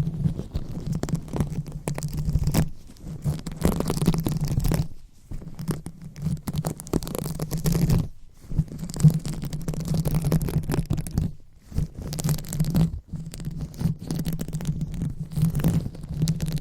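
Hands rubbing and scratching on a microphone in uneven strokes, making a low muffled rumble with scratchy highs. The rubbing pauses briefly a few times.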